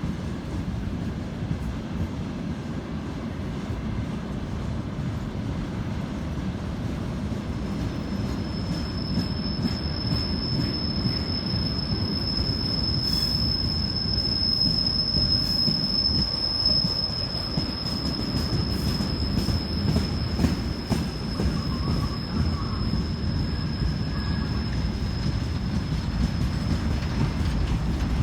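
Train rolling past with a steady low rumble and scattered wheel clicks over rail joints. About eight seconds in, a thin, high, steady wheel squeal starts and runs on through most of the rest.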